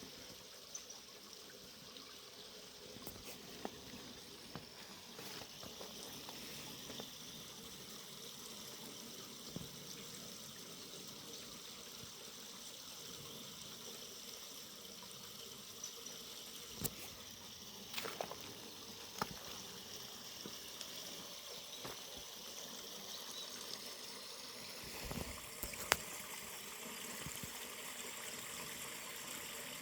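Forest river running steadily, an even rush of flowing water with a few short sharp clicks or splashes.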